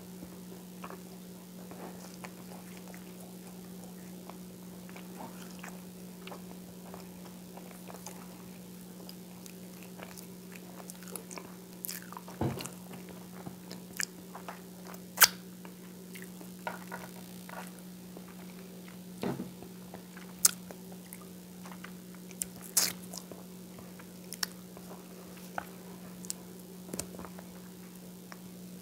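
Close-miked chewing of whole wheat toast with peanut butter: soft, wet mouth clicks and smacks with a few sharper smacks in the second half. A steady low hum runs underneath.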